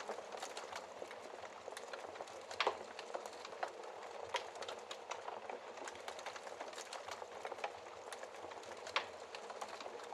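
Wood fire burning in a fireplace: a steady hiss with irregular crackles and pops, the loudest pops about two and a half seconds in and again near the end.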